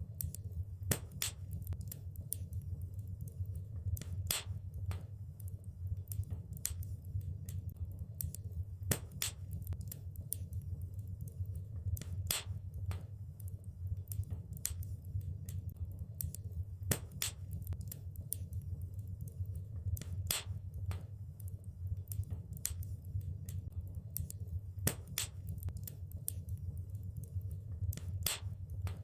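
Wood fire crackling: irregular sharp pops and snaps, some in quick clusters, over a steady low rumble.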